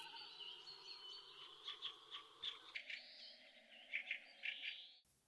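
Faint birds chirping outdoors: a series of short, high notes over a soft background hiss, cutting off abruptly near the end.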